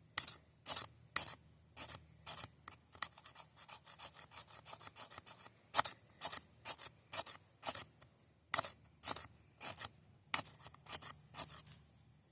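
Repeated rasping scrapes, about two strokes a second, quickening briefly in the middle, like a tool being drawn across a rough surface.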